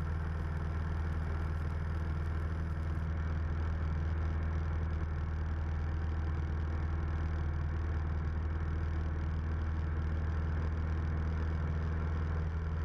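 Engine and propeller of a 1976 Cessna 172M, a four-cylinder Lycoming O-320, droning steadily in the cabin during a descent. The drone is a deep, even hum with no changes in power.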